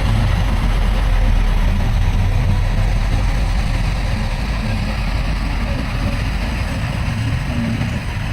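Heavy diesel earthmoving machinery running steadily, a deep engine hum with a broad mechanical noise over it, easing slightly in level toward the end.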